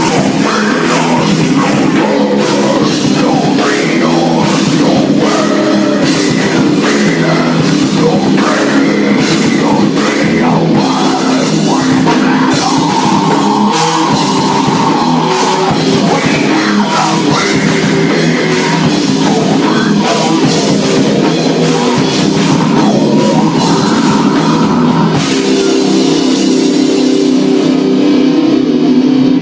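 Rock band playing live and loud: heavy, distorted electric guitars over a drum kit, continuous throughout.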